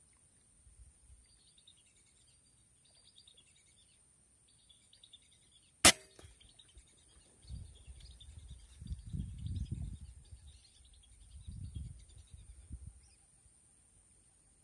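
A single air rifle shot about six seconds in: one sharp crack with a short ring. It sits over steady insect chirping, and a low rumbling follows for several seconds after the shot.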